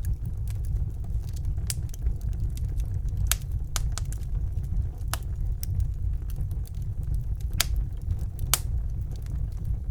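Fireplace fire burning: a steady low rumble of the flames with sharp crackles and pops at irregular intervals, a few of them louder snaps.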